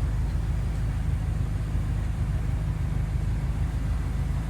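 Steady low rumble with no change or separate events.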